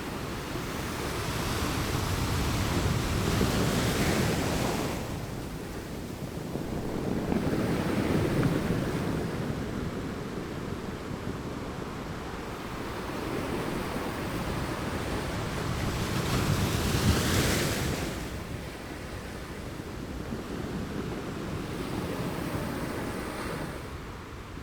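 Ocean waves breaking and washing up on a beach, rising into three louder surges and falling back between them, with wind buffeting the microphone.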